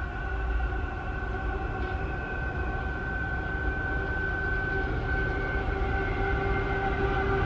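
Approaching train: a steady hum of several held tones over a low rumble, growing louder as it nears.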